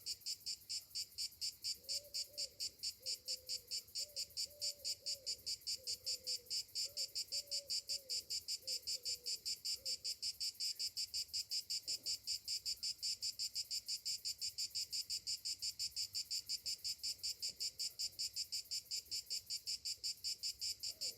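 Summer cicadas calling in an even, rapid pulsing, about four high-pitched pulses a second, steady throughout.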